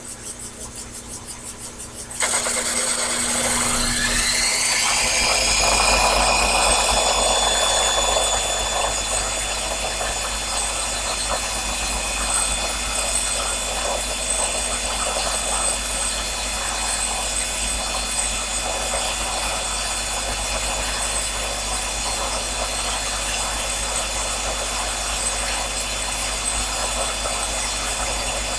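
Sherline mini lathe's motor starting about two seconds in, its whine rising in pitch over a few seconds as it comes up to speed, then running steadily.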